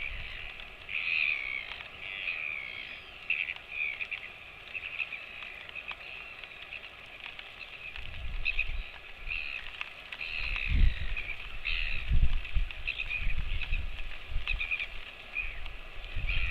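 Many small animals chirping over and over in short high calls, with low rumbling thumps about eight seconds in and again around eleven to thirteen seconds.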